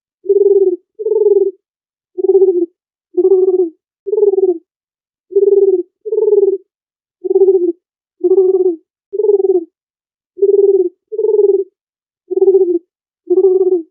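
Dove cooing: about fourteen short, low coos, roughly one a second and some in close pairs, each a brief hoot with a fainter higher note on top, with dead silence between them.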